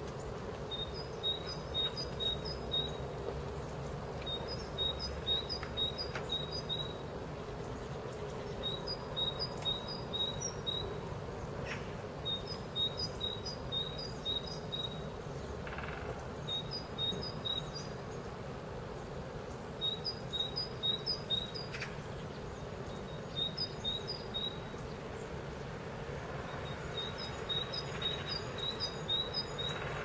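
A small songbird singing short phrases of quick, repeated two-note high chirps, one phrase every three to four seconds. Under the song is a steady low background noise.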